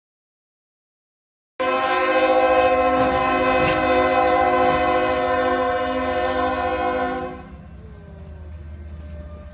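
After about a second and a half of silence, a locomotive air horn blows one long steady chord of several notes for about six seconds, then stops, leaving a quieter low rumble of the train.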